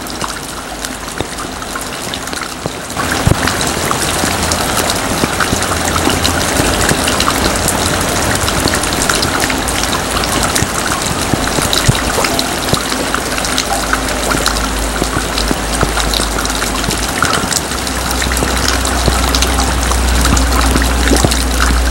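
Heavy rain pouring down and splashing, growing louder about three seconds in. A low, steady rumble builds under it near the end.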